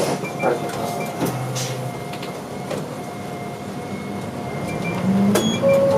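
Interior of a city route bus: the engine runs steadily under a few mechanical clicks and rattles, with a short rising whine about five seconds in and a sharp click near the end.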